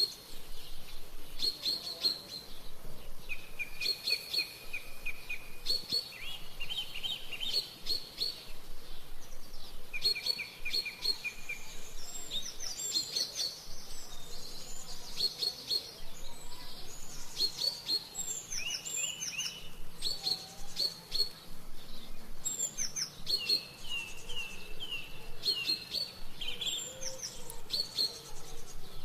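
Small songbirds singing: many short, high chirps repeated again and again, mixed with runs of quick trilled notes.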